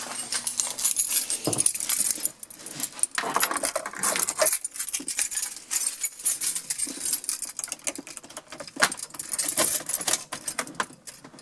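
A bunch of keys jangling and clinking while being handled, with irregular light metallic clicks.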